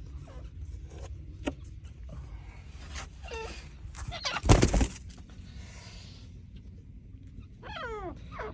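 Pet birds calling: a loud, harsh squawk about halfway through, with shorter falling calls before it and again near the end, over a steady low rumble.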